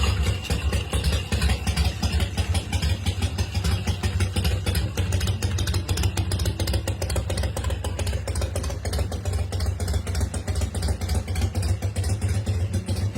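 Big Dog Mastiff's 117 cubic inch S&S V-twin engine idling, a steady rapid low pulsing.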